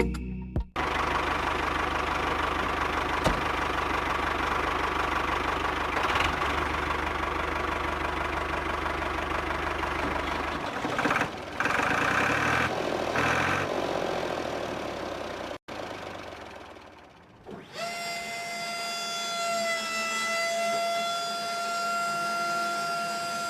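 Small electric motor and fan of a miniature wheat-cleaning machine running with a steady whirring noise and low hum; it stops about 15 seconds in, and after a short pause a steady high-pitched whine sets in.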